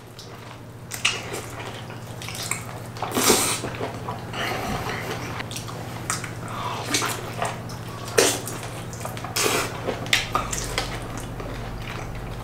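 Close-up wet chewing and lip-smacking of a man eating a mouthful of grilled lobster meat: irregular moist smacks and clicks over a steady low hum.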